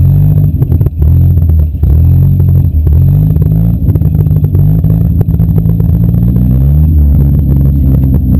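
Demolition derby car engine running loud and distorted, its revs rising and falling, with a climb in pitch about seven seconds in and then a drop. Rattling and knocking clatter runs through it.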